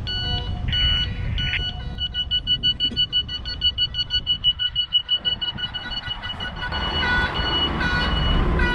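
Container truck's reverse-warning beeper sounding in a continuous series of high beeps, quicker in the middle, over the low rumble of the truck's diesel engine, which grows louder near the end.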